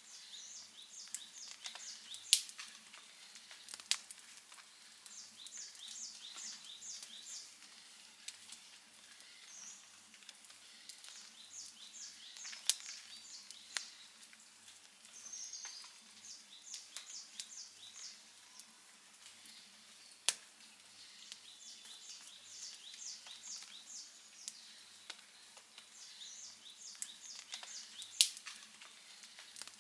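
Outdoor wood fire crackling steadily, with a handful of sharp, louder pops. High, quick chirps in runs of four to six repeat through the background.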